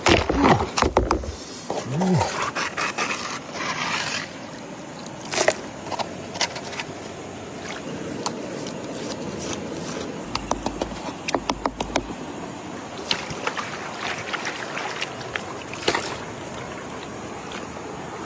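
Hard objects scraping and clicking against each other, with many sharp knocks scattered through and a cluster of them toward the end.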